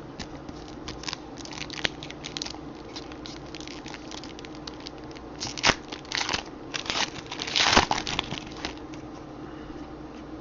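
Foil trading card pack wrappers crinkling and tearing as packs are opened by hand, with irregular crackles, louder about halfway through and again near the end, then quiet, over a steady low room hum.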